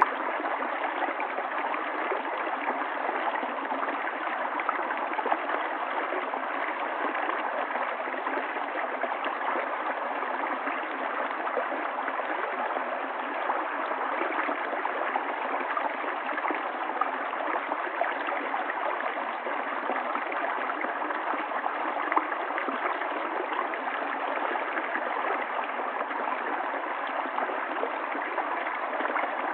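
River water flowing steadily over stones, a continuous rushing and gurgling.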